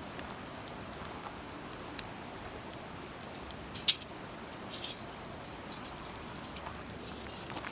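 Wood campfire crackling: scattered small pops over a steady low hiss, with one sharp pop about four seconds in.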